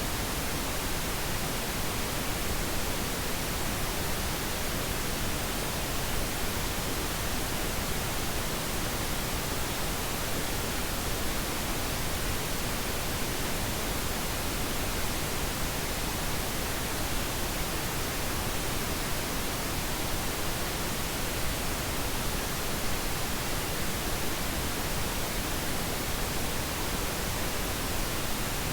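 Steady synthetic pink noise: an even, unchanging hiss spread over all pitches.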